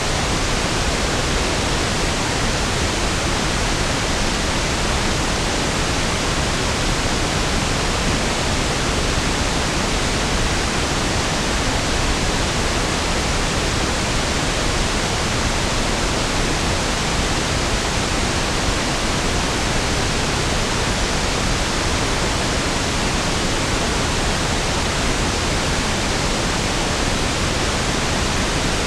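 Steady pink noise (1/f noise), an even, unchanging hiss with equal energy per octave, smoother and deeper than white noise.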